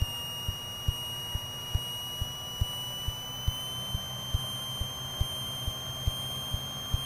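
Steady high electrical whine on the aircraft's intercom audio, edging up slightly in pitch about three seconds in while the Piper Archer's engine runs up to 2000 RPM, with faint low ticks about twice a second underneath.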